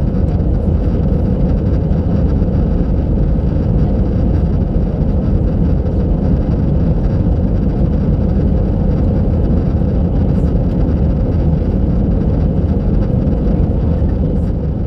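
Steady cabin noise of an Airbus A319 airliner climbing: engine and airflow noise with a faint steady hum running through it, heard from a passenger seat.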